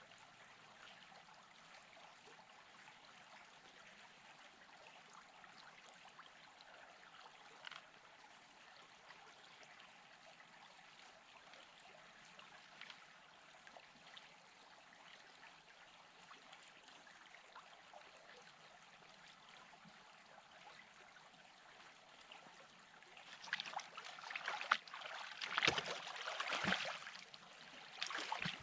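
A stream trickling faintly, then about 23 seconds in, louder irregular sloshing and splashing of water as a gold pan is worked in the stream.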